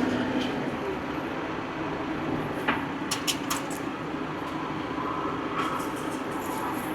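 An old farm tractor's engine running steadily at a lower pitch, with a few sharp metallic clanks about three seconds in.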